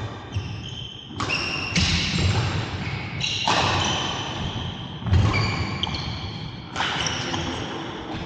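Badminton doubles rally: sharp racket hits on the shuttlecock every one to two seconds, with high squeaks between them, echoing in a large hall.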